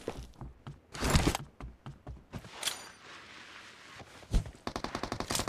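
Shooter video game sound effects: a few scattered single shots or impacts, then a rapid burst of automatic gunfire starting near the end.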